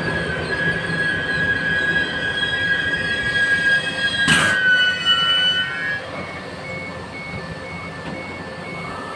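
Passenger train hauled by a ZSSK class 350 electric locomotive squealing as it brakes to a stop. The high squeal falls slightly in pitch and dies away about six seconds in. A single sharp bang comes a little after four seconds, and in the second half a regular beep sounds about twice a second.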